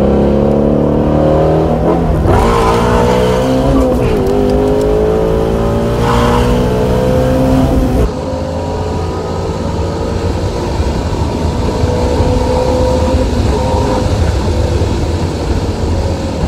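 Shelby GT350R's 5.2-litre flat-plane-crank V8 accelerating hard, heard from inside the cabin: the revs climb and drop back at upshifts about two, four and eight seconds in. After the last shift it runs a little quieter, its pitch creeping up and then easing.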